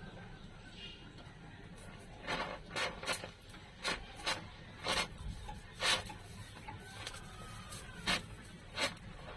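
A series of about ten short scraping strokes, irregularly spaced at roughly one or two a second, over a low steady background.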